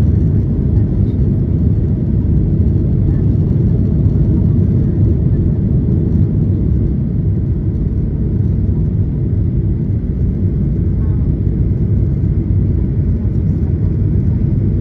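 Steady low rumble of a Boeing 737-800's engines and airflow, heard inside the passenger cabin.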